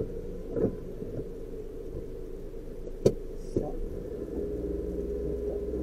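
Suzuki Jimny JB23's 660 cc three-cylinder turbo engine idling, heard inside the cabin, with a few sharp clicks and knocks, the loudest about three seconds in. Past the middle the engine note changes as the car pulls away.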